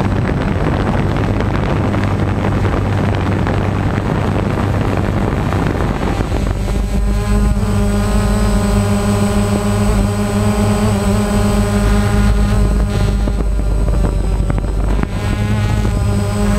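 An engine running steadily, under a loud rushing noise that falls away about six seconds in, after which the engine's even hum stands out clearly.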